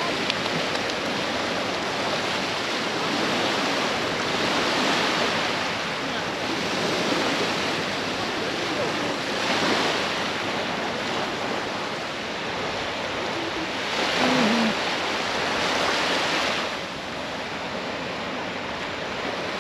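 Waves washing onto a beach: a steady hiss of surf that swells louder every few seconds as a wave breaks.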